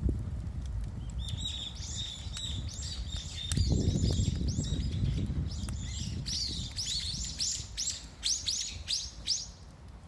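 A small bird singing a long run of quick, high chirps, starting about a second in and stopping just before the end, over a steady low rumble.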